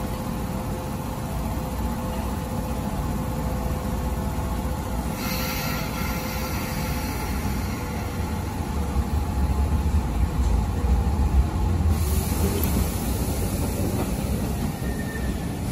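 Keisei 3500-series electric commuter train at the platform: a short burst of air hiss about five seconds in, then a low rumble of motors and wheels that builds from about eight seconds in as the train pulls out.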